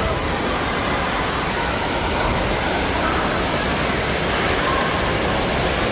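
Steady rushing water-park din: falling and splashing water with faint distant voices.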